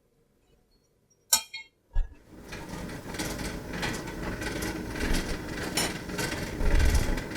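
Two sharp metallic clinks, the first ringing briefly, then a continuous rough mechanical noise with a low rumble starts about two seconds in and keeps going.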